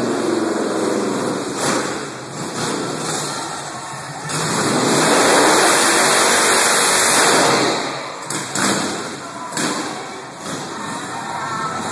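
1999 Harley-Davidson Dyna Wide Glide's V-twin engine running and revving as the sidecar rig circles, much louder for a few seconds in the middle as it passes close, then falling back.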